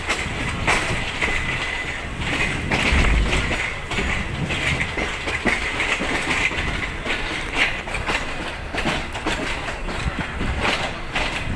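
Passenger train running at low speed, heard from inside a carriage: a steady rumble with irregular clicks of the wheels over the track, and a thin high whine in the first few seconds.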